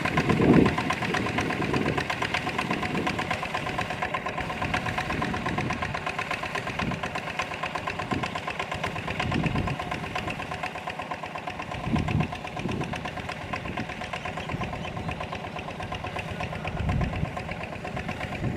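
Small tractor's engine running steadily with a fast, even clatter, swelling briefly a few times: about half a second in, around twelve seconds in and near seventeen seconds.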